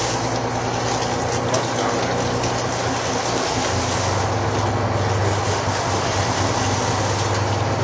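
Charter fishing boat's engine running steadily under a constant hiss of wind and water, its low hum growing a little stronger about halfway through.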